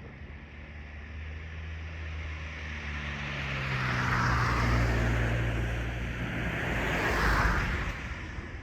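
Kōnan Railway Ōwani Line electric train passing, a low hum and wheel noise swelling to two loud peaks and then fading.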